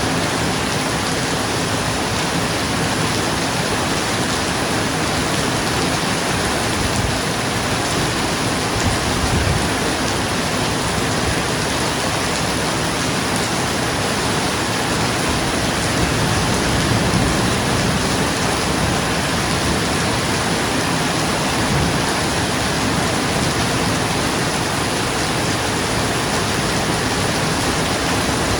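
Steady heavy rain drumming on a roof, with low rumbles of distant thunder swelling briefly about nine seconds in and again around seventeen seconds in.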